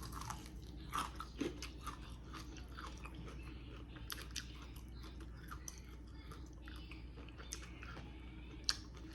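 Close-up chewing and biting into crispy fried chicken coated in hot honey, with irregular crunches and wet mouth clicks.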